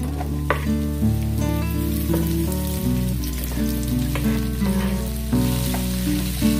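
Sliced mushrooms dropping into hot oil and sizzling in a wide aluminium frying pan on high heat, with a few sharp clatters as they land and are stirred. Background music plays underneath.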